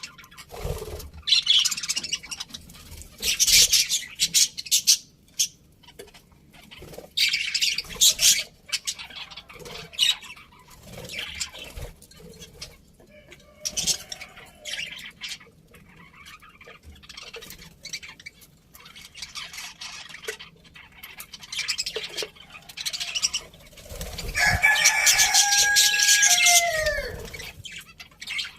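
Budgies chattering and chirping in short, high, scratchy bursts that come and go. Near the end a longer, louder bird call holds steady, then falls in pitch.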